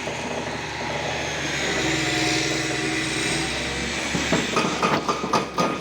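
A vehicle engine running steadily, followed by a run of sharp knocks and clatter in the last second and a half.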